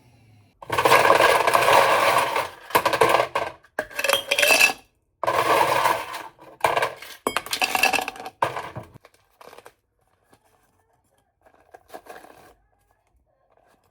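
Hard objects clattering and clinking in a run of loud, noisy bursts over about eight seconds, then only faint handling noises near the end.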